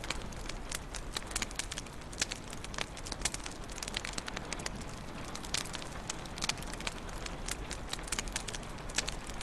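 Wood fire crackling in a fireplace: irregular sharp pops and snaps, several a second, over a steady low rush of the flames.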